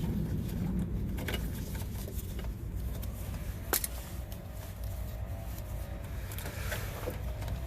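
A few sharp clicks and taps of hand tools working the wire terminals on an HVAC contactor, the strongest about halfway through, over a steady low background hum.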